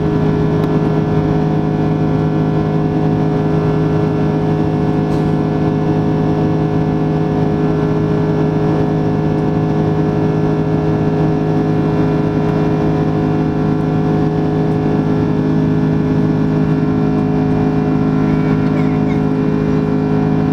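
Airbus A330-300 cabin noise: a steady drone of the jet engines and airflow, with several steady tones held at an even pitch and level.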